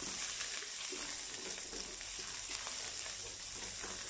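Chopped onion sizzling in hot oil in a nonstick pan, with a steady hiss, while a wooden spoon stirs it with light scraping and faint taps against the pan.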